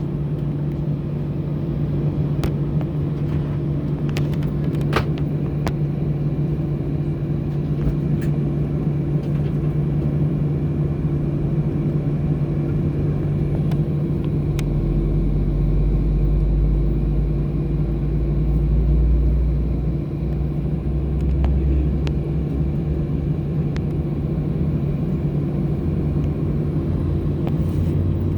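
Airbus A320 cabin noise while taxiing: a steady hum from the engines and air system. A deeper rumble swells for several seconds in the middle, with a few faint clicks.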